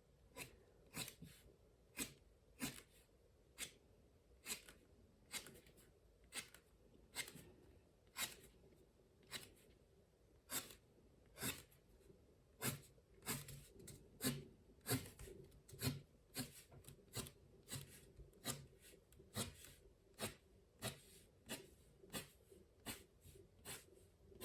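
Faint short strokes of a drawing tool on paper, repeating about once or twice a second, as lines are drawn through the centres of the petals.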